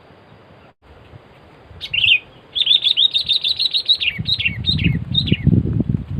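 Sooty-headed bulbul calling: a short call about two seconds in, then a rapid run of sharp chirps, about eight a second, ending in a few falling slurred notes. Low rustling and bumping sounds run under the last couple of seconds.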